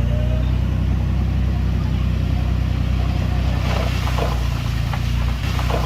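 Heavy diesel engine of earthmoving machinery running steadily at a low, even pitch. A few short clattering crunches come through around the middle and again near the end.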